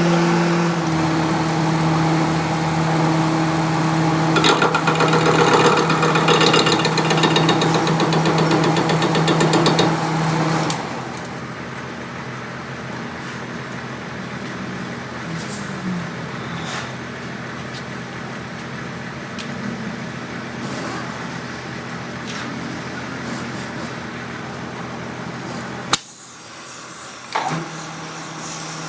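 Workshop machinery running with a steady motor hum and a fast metallic chatter. About ten seconds in it cuts to a quieter stretch of scattered metal clicks and knocks, and the motor hum returns near the end.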